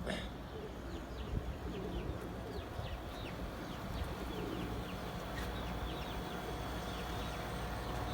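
Domestic pigeons cooing softly, with many short, high, falling chirps of birds throughout over a steady low rumble.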